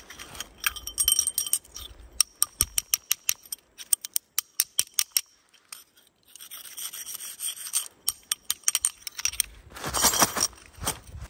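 Light metallic jingling and clinking, with a quick run of sharp clicks in the middle and a louder rustling burst near the end.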